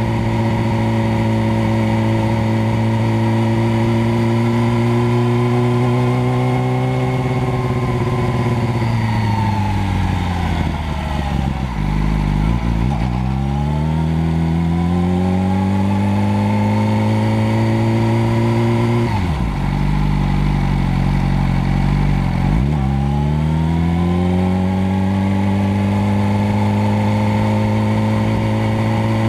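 Motorcycle engine running at a steady pitch. Twice its note drops away and then climbs back up as it slows and picks up speed again.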